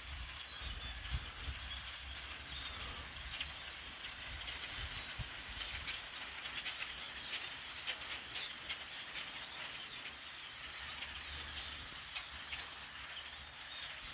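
A large flock of birds roosting in trees, hundreds of them calling at once in a dense, continuous chatter of short calls, over a low rumble.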